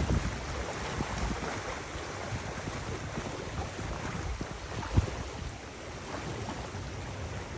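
Wind buffeting the microphone in uneven low rumbles over a steady rush of water, with one short thump about five seconds in.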